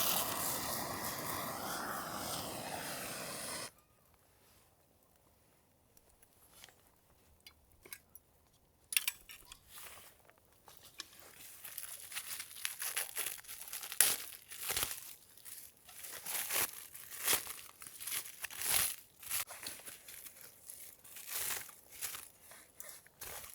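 A loud steady rushing noise cuts off suddenly a few seconds in. After a quiet pause come scattered crackles, then thin plastic packaging being crinkled and torn open, growing busier toward the end.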